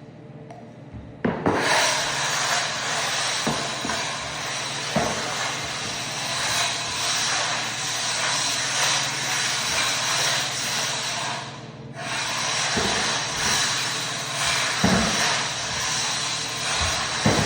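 Floor buffer running across sanded oak, its pad rubbing and scrubbing hard wax oil into the wood, with occasional knocks. The sound is low for about the first second and starts in full with a knock, dipping briefly a little before two-thirds of the way through.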